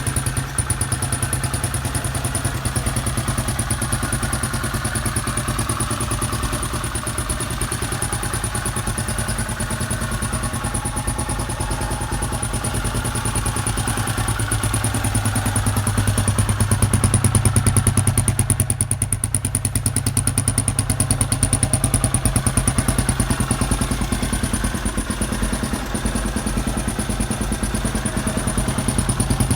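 Freshly rebuilt 1981 Honda XR500R single-cylinder four-stroke engine running steadily, a little louder for a few seconds past the middle.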